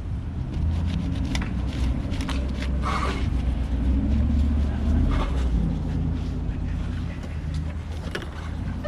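A motor vehicle's engine running with a low rumble that builds, is loudest around the middle, and eases off near the end. A few light clicks sound over it.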